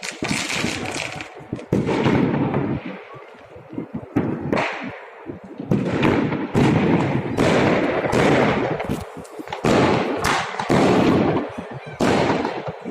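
Aerial fireworks shells bursting one after another at irregular intervals, each sudden bang trailing off in a rumble and crackle, about a dozen in a row.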